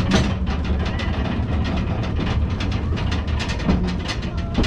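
Two-foot narrow-gauge passenger train rolling along the track, heard from an open-sided car: a steady low rumble with irregular clicks and rattles from the wheels and car.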